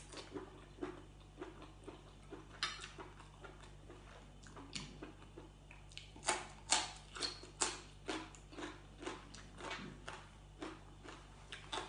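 Close-up eating sounds: chewing with irregular crisp crunches, loudest and quickest about six to eight seconds in when a raw green pod vegetable is bitten and chewed.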